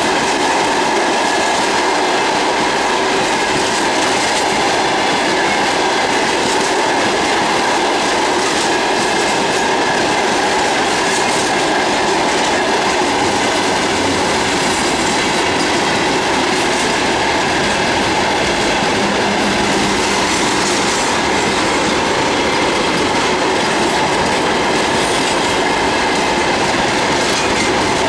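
Freight train wagons rolling past: a steady run of wheel-on-rail noise with no horn.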